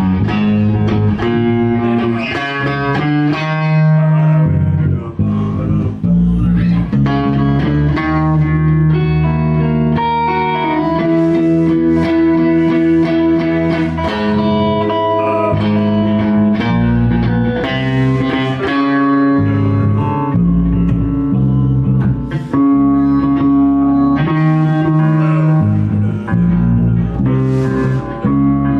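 Electric guitars playing through a song's chord changes, with strummed chords and picked notes over lower bass notes, as a band rehearses the progression.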